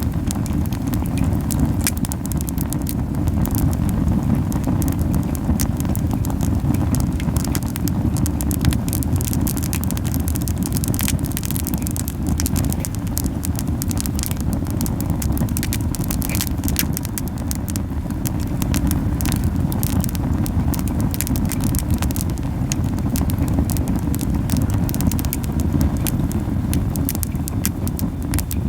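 Camellia wood burning hard in a fire pit: frequent sharp crackles and pops over a strong, steady low puffing of the flames. The fire is burning too fiercely, which makes the low puffing heavy.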